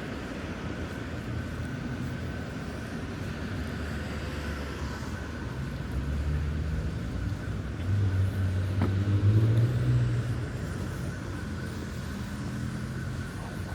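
Boulevard traffic: a steady low rumble of road vehicles, with a car engine passing close and swelling to its loudest about eight to ten seconds in before fading back.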